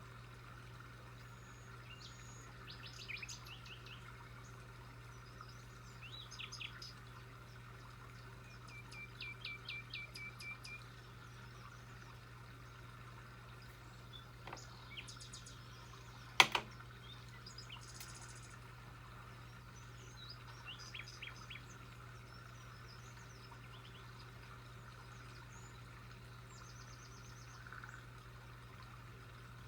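Small birds singing in short, spaced phrases of quickly repeated chirping notes, the longest a run of about ten notes roughly a third of the way in, over a steady low hum. About halfway through, a single sharp click or knock stands out as the loudest sound.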